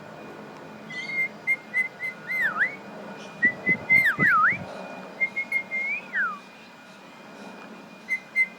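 Clear whistling: short repeated notes at one pitch, broken by quick swooping dips and a long falling glide, pausing before a few more notes near the end. A few soft knocks sound around the middle.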